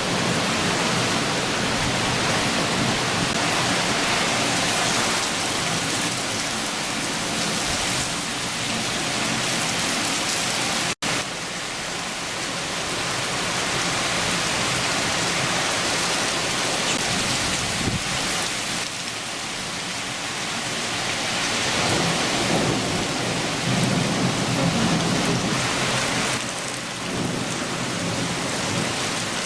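Heavy shower rain falling steadily, with low rumbles of thunder swelling near the start and again about two-thirds through. About eleven seconds in, the sound cuts out for an instant.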